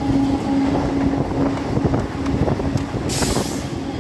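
Electric multiple-unit train passing at speed, about 94 km/h, with a continuous rumble and rapid clatter of wheels over rail joints. A steady horn tone carries on at the start and fades out about two-thirds of the way through. A brief hiss comes near the end.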